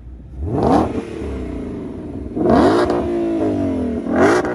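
2020 Shelby GT500's supercharged 5.2-litre cross-plane V8 revved three times in neutral, each blip rising sharply in pitch and falling back to idle.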